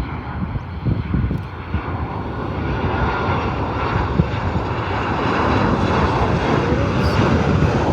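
Boeing 737-800's CFM56 turbofan engines as the jet comes in to land: a steady jet roar with a faint whine, growing louder as it approaches.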